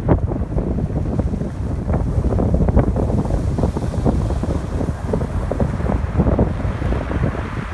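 Strong wind buffeting the microphone with a heavy low rumble, over ocean surf breaking on the shore; a wave's wash swells up near the end.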